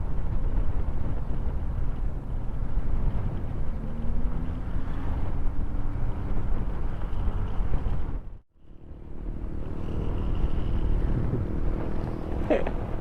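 Motorcycle on the move with wind rushing over the microphone and the engine note underneath, rising briefly about four seconds in. The sound cuts out for about half a second a little past the eight-second mark, then the ride continues.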